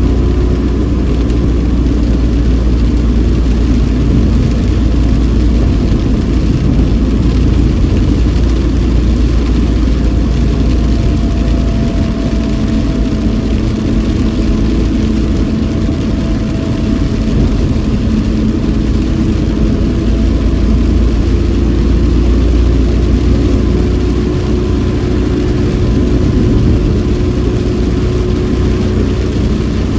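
Inside a moving car: steady engine and road noise with a strong low rumble and the hiss of tyres on a wet road, plus a faint hum that shifts slightly in pitch partway through.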